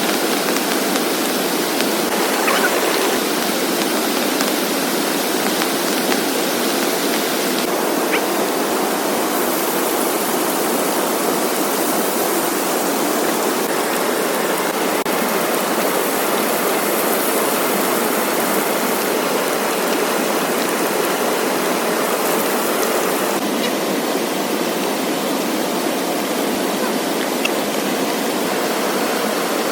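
Heavy rain pouring down in a steady, dense hiss, with a few faint clicks of drops.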